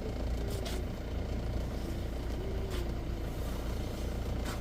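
Safari vehicle's engine running steadily with a low rumble, broken by three short clicks spread across the few seconds.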